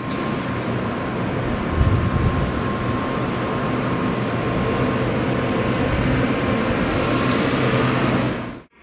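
Steady mechanical hum and rumble of an N700S Shinkansen train at the platform, with a thin high tone over it. A brief low swell comes about two seconds in.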